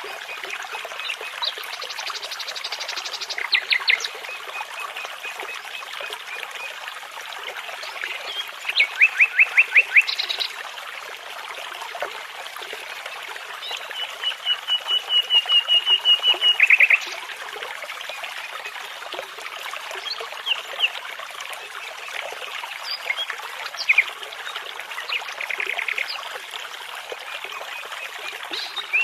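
Babbling brook running steadily, with songbirds singing over it in phrases of rapidly repeated notes. The longest is an even trill lasting about three seconds midway through.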